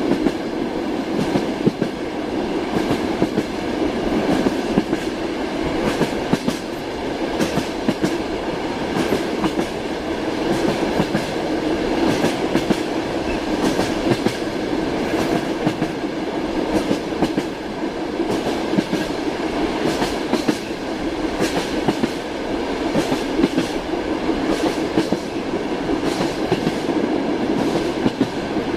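Train wheels clattering along the rails: a steady rolling rumble with frequent sharp clicks from the wheels striking rail joints.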